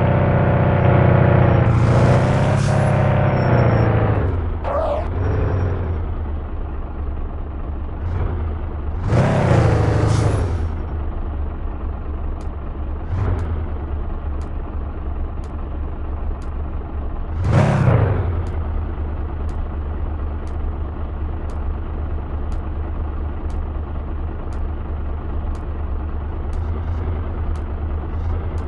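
Fiat Doblo van's engine slowing down and then idling steadily. Three loud rushing swells of passing traffic come and go over it. From about halfway through, a faint regular ticking comes roughly once a second.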